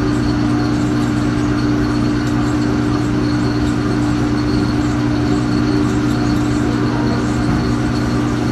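Steady mechanical hum with an even rushing noise, holding constant throughout.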